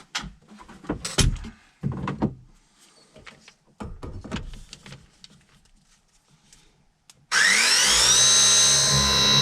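Knocks and handling clatter, then about seven seconds in a battery-powered press tool starts up with a whine rising in pitch and runs loudly at a steady pitch as it crimps a press fitting onto a refrigerant line.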